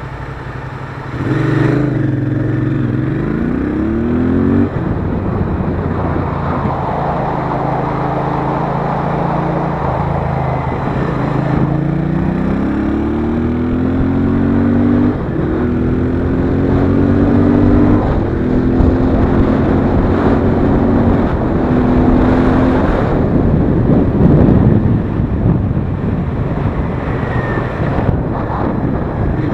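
Royal Enfield Interceptor 650's parallel-twin engine pulling away under throttle about a second in, rising in pitch and dropping back at each upshift as it goes up through the gears. Wind noise grows stronger near the end.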